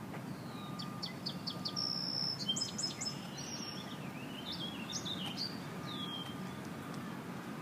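A songbird singing: a run of five quick notes, then a busier, warbling phrase of varied notes a couple of seconds in, with a few more separate notes after, over a steady low outdoor rumble.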